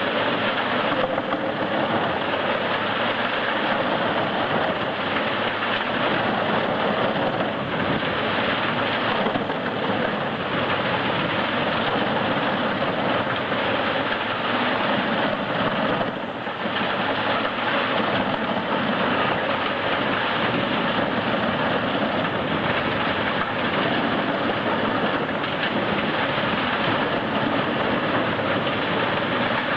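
Large wood chipper running steadily, a dense engine-and-grinding noise with a brief dip about 16 seconds in.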